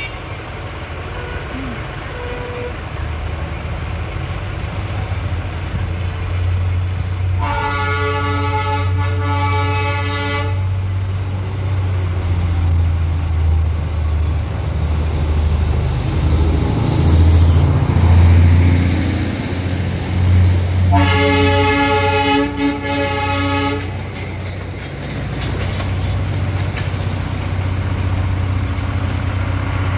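Darjeeling Himalayan Railway toy train locomotive sounding two long blasts, the first about seven seconds in and the second about twenty-one seconds in, each lasting about three seconds. Under them runs the steady low rumble of road vehicles idling.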